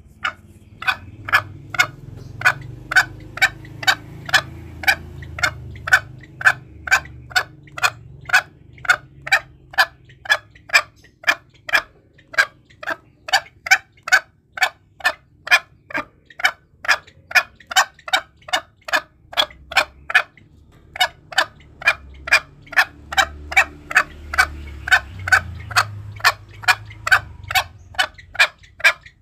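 Green junglefowl calling as a hunting lure: a long, even run of short, sharp clucks, about two to three a second, meant to provoke rival birds.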